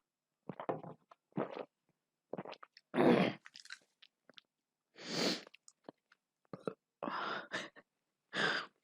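Close-up eating sounds: chewing and biting in a series of short, irregular bursts, the loudest about three seconds in.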